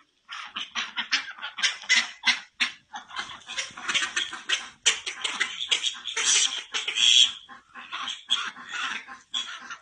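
Animal calls: a rapid, irregular run of short, shrill, noisy calls, closely packed with brief gaps.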